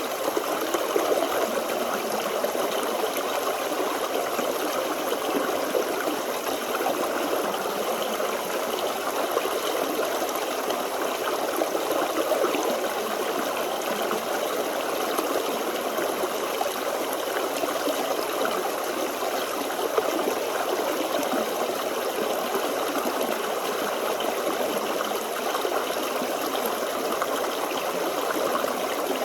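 Forest stream flowing: a steady babble and trickle of water over stones.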